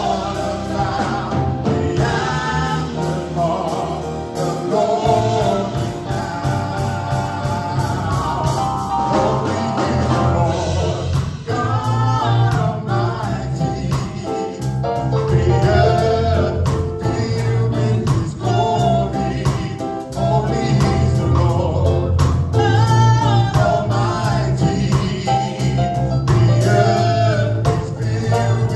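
Gospel praise band and singers performing a worship song: voices singing over bass, drums and keys.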